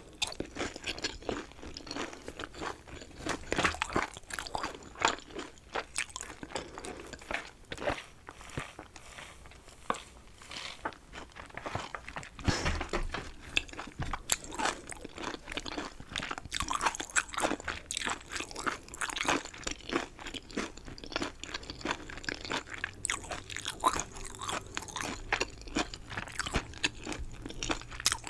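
Close-miked biting and chewing of chicken: continuous irregular crunching and crackling with wet mouth sounds, one bite or chew after another.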